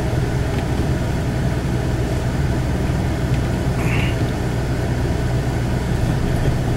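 A vehicle's engine and road noise heard from inside the cabin while driving slowly through snow, a steady low hum, with a brief faint high chirp about four seconds in.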